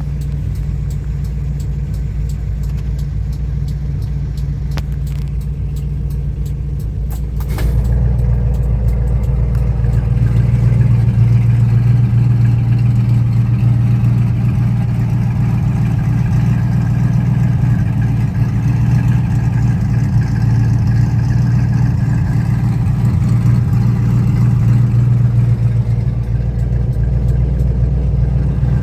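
Engine of a customised 1993 Toyota pickup running with a steady low hum. A sharp click comes about a quarter of the way in, and after it the engine sound gets louder and stays up.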